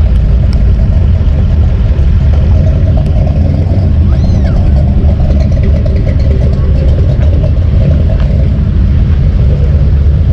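A vehicle's engine running steadily under way, a constant low drone.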